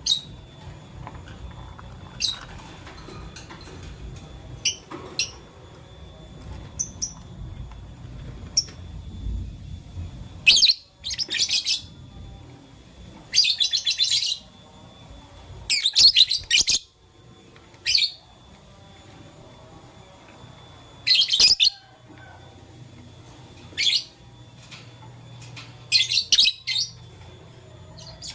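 Lovebirds chirping: short, sharp, high-pitched chirps, a few scattered at first, then loud rapid clusters every couple of seconds from about ten seconds in.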